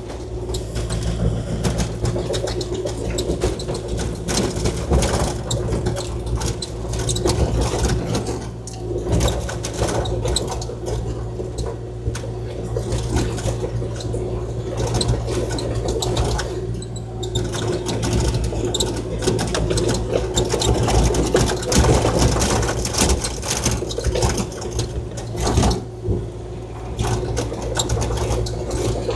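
Kubota KX040-4 mini excavator running steadily under work, a constant diesel hum with a fixed mid-pitched tone and a busy mechanical rattle on top.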